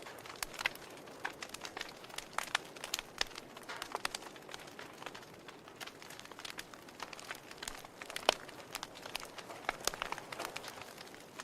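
Wood fire crackling in a fireplace: irregular sharp pops and snaps from the burning logs over a low hiss, the loudest snap about eight seconds in.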